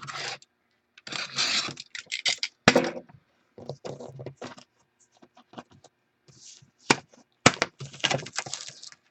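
A sealed box of football trading cards being unwrapped and opened: irregular bursts of crackling wrapper and packaging handling, with sharp clicks and short pauses between them.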